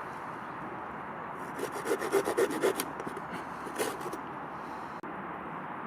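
Folding saw cutting wood: a quick run of short strokes about a second and a half in and one more stroke near four seconds, over a steady background hiss.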